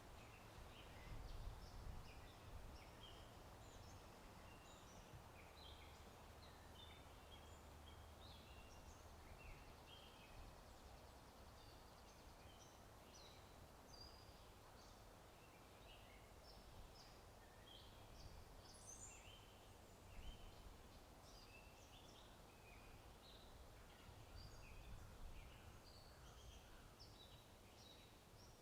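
Faint birdsong ambience: many short chirps and calls from several small birds overlapping throughout, over a low steady wind rumble.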